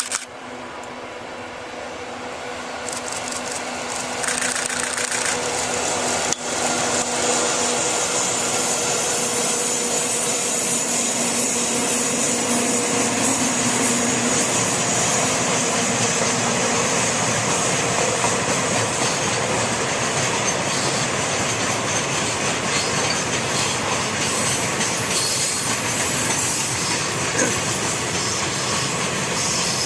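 JR Freight EF64 electric locomotive freight train approaching and passing close by. A hum grows over the first several seconds, then the steady rumble and clatter of wheels on rail joints runs on as the freight wagons roll past.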